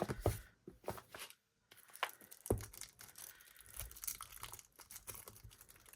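Album packaging being handled: crinkling and rustling, with scattered light clicks and taps.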